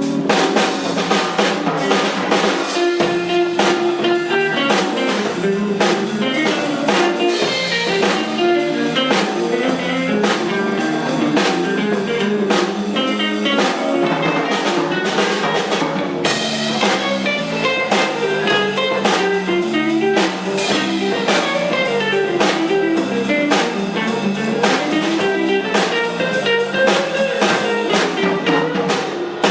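Live band music with drum kit and guitar playing a steady beat.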